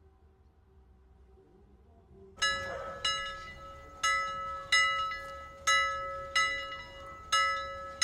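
Bell-like timer alarm chime struck repeatedly in pairs, eight strikes starting about two and a half seconds in, each ringing on between strikes: the Pomodoro timer signalling the end of the 25-minute focus period.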